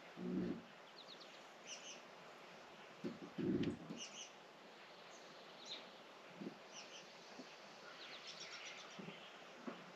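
Faint bird chirps, short high calls coming every second or so, with two soft low thumps, one about half a second in and one around three and a half seconds in.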